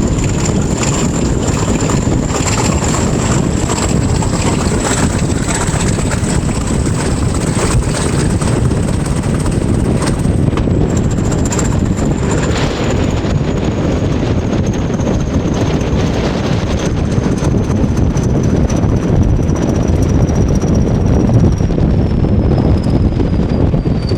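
English Electric Class 20 diesel locomotive D8188 working under way, heard from the train behind it: steady engine and running noise with a high whistle that climbs slightly, then falls steadily through the second half.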